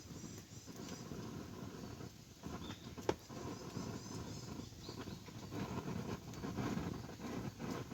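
Wood campfire burning with a steady crackle, and one sharp pop about three seconds in.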